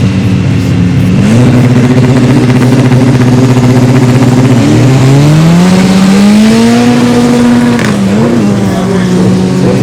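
Drag-race car engine revving hard and held at high revs; the pitch steps up about a second in, dips and climbs again about halfway, then drops near the end.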